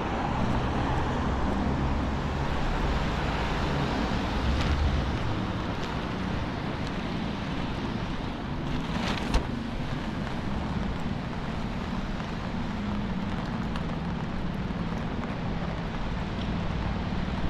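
Downtown street traffic on wet roads: cars running past with a steady hiss, and a single sharp knock about nine seconds in.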